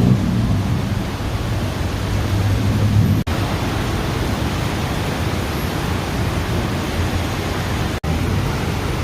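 Heavy tropical rain pouring steadily, with a low rumble underneath for the first few seconds. Twice the sound drops out for an instant.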